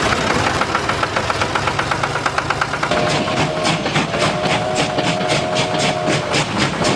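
Train sound: a fast, regular chugging that settles to about four beats a second, with a steady whistle that sounds briefly about three seconds in, is held for about two seconds, and starts again near the end.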